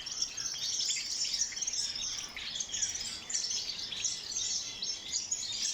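Many small cage finches chirping at once, a dense, unbroken chorus of high, overlapping calls.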